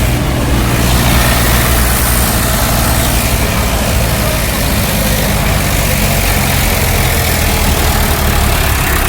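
Tractor engine running steadily under full load, a constant low engine note with no change in speed.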